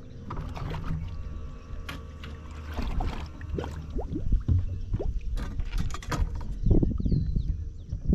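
Irregular water splashes and knocks around a small fishing boat, over a low steady rumble of wind. The splashes grow louder and busier about halfway through.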